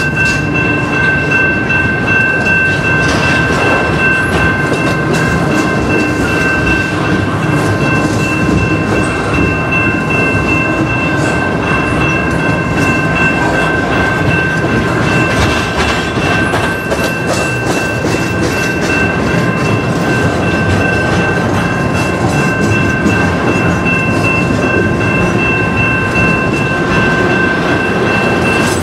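Double-stack intermodal well cars of a Canadian Pacific freight train rolling past, a steady loud rumble with steel wheels clacking over the rail joints. A steady high ringing sits over the rumble.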